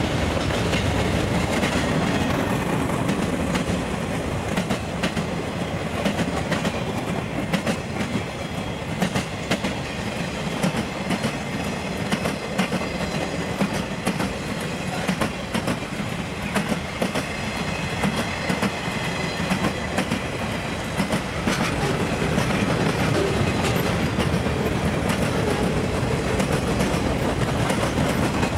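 A train rolling by on the track, its steel wheels clicking over rail joints in a fast, continuous stream over a steady rumble.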